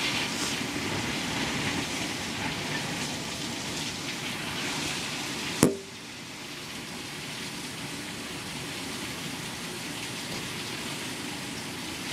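Heavy rain falling in a steady hiss during a thunderstorm. About halfway through there is a single sharp knock, after which the rain sounds a little quieter.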